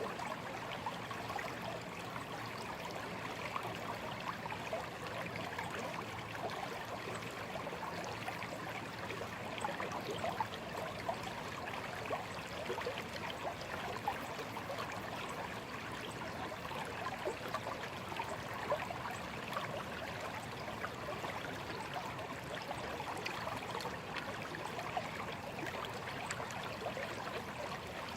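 Shallow stream babbling and trickling steadily over stones, with many small splashes and gurgles flickering through it.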